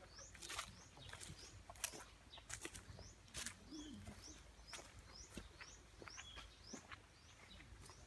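A small bird chirping over and over: short, high, rising chirps about twice a second, faint, with scattered sharp clicks and a low rumble under them.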